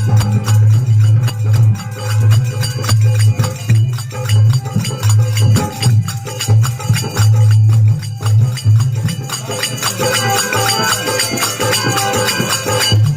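Rajasthani folk devotional (bhajan) music: dholak drum playing a dense rhythm with jingling hand percussion over a steady low band. More higher-pitched melodic sound comes in about ten seconds in.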